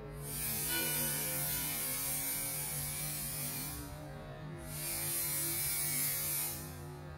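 Aerosol spray can hissing in two long bursts, the first about three and a half seconds and the second about two seconds, over a steady low electrical hum.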